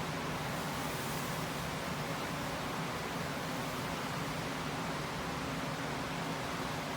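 Steady hiss of running machinery with a low hum underneath, unbroken and even throughout.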